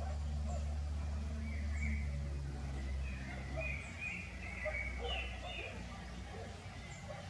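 Small birds chirping over a low steady hum that weakens about halfway through.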